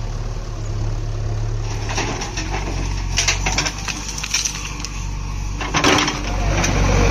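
Diesel engine of a backhoe loader running steadily, with a string of crunches and clatters from about two seconds in, as soil and stones are tipped from the bucket into a tipper trailer.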